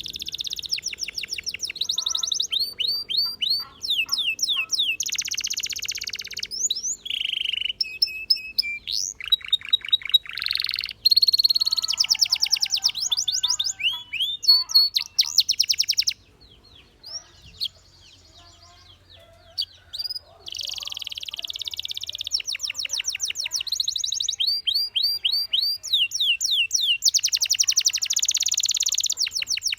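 Domestic canary singing: long runs of rapid repeated notes and fast trills. There is a pause of a few seconds a little past the middle before the song resumes.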